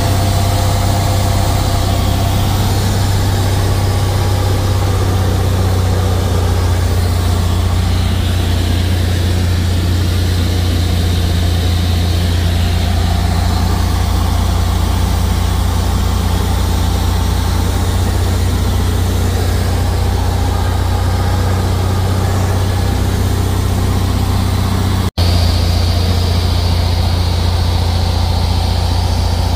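Cessna 172's piston engine and propeller droning steadily, heard inside the cockpit as a strong low hum under a dense rush of air and engine noise. A split-second gap breaks it near the end.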